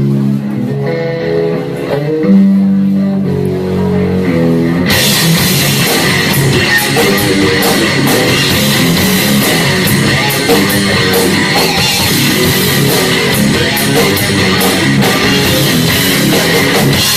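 Heavy metal band playing live: a distorted electric guitar plays a riff alone for about five seconds, then the drums, cymbals and the rest of the band come in together and play the song's loud instrumental intro.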